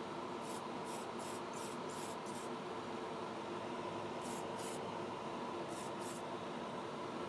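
Short hissing rubbing strokes of a polishing cloth on a plastic model car body: a quick run of about six back-and-forth strokes, then two pairs later on. A steady low hum runs underneath.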